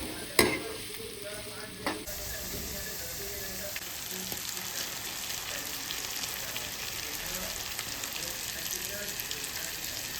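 Food sizzling as it fries in a hot pan, with two sharp knocks in the first two seconds, then a steady sizzle.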